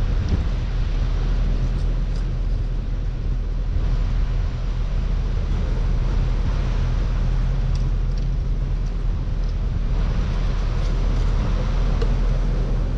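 An engine running steadily, a low drone that stays level throughout.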